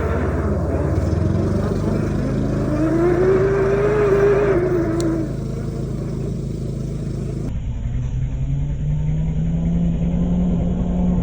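An engine or motor running steadily, with a rushing noise over it that dies away about five seconds in; the engine sound shifts abruptly a couple of seconds later.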